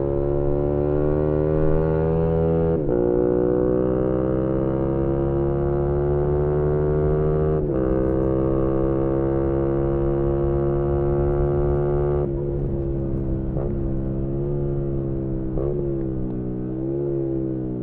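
Yamaha MT-125 single-cylinder engine with an aftermarket GPR exhaust under acceleration. The pitch climbs and drops sharply at three upshifts, then holds near steady, wavering with small throttle changes.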